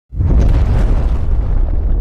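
Loud rushing water of a waterfall, a dense rumbling roar heavy in the low end, starting abruptly just after the start.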